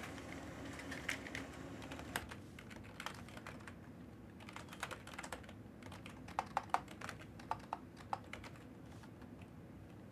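Typing on a computer keyboard: irregular keystroke clicks, in quicker runs in the second half.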